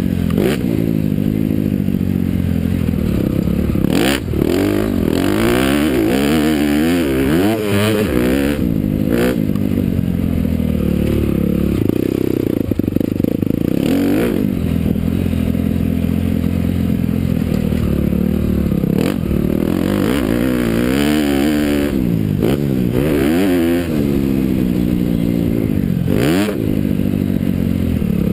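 Honda CRF250R motocross bike's single-cylinder four-stroke engine being ridden hard on a track. Its pitch climbs and drops again and again as the rider accelerates and changes gear, with a few short sharp noises.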